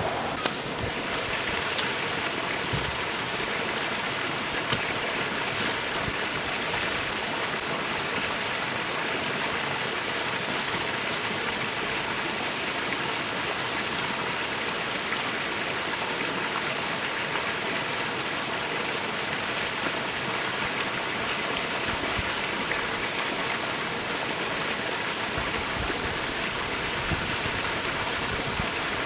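Forest stream running, a steady rush of flowing water with a few faint ticks.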